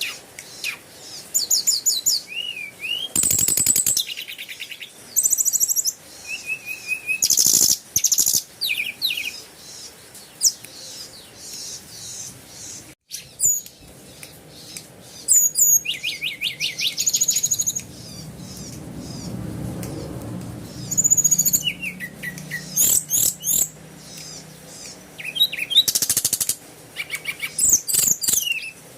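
Birds chirping and calling in repeated short bursts of rapid, high trilled notes.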